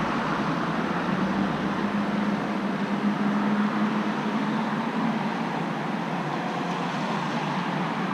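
Steady road traffic noise: an even hiss with a low hum that swells for a couple of seconds in the middle and then fades.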